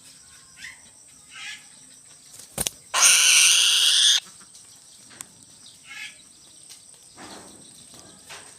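A bird gives one loud, harsh scream lasting just over a second, with a few short, faint calls before and after it and a sharp click just before the scream.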